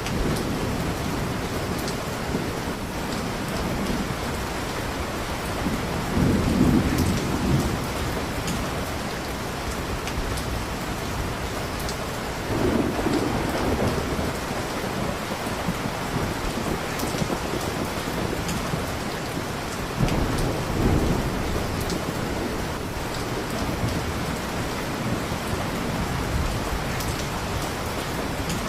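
Steady heavy rain with low rolling thunder that swells three times, and the faint ticking crackle of a fireplace fire.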